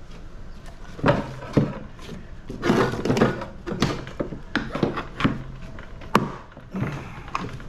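Irregular knocks, thunks and clatters of metal parts being worked loose while an air-conditioning unit is dismantled, a couple of strikes ringing briefly.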